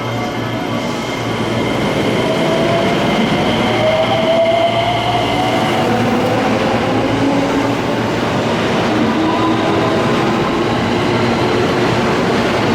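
JR West electric train on the Takarazuka Line pulling away from the platform. The motors' whine rises in pitch as it picks up speed, over the steady running noise of the train.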